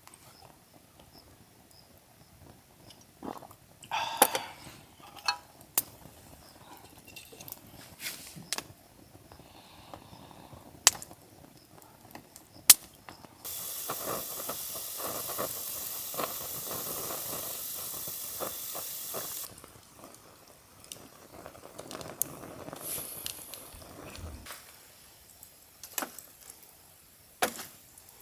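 Scattered clicks and knocks of things being handled. About halfway through, a steady hiss starts abruptly, runs for about six seconds, and cuts off abruptly.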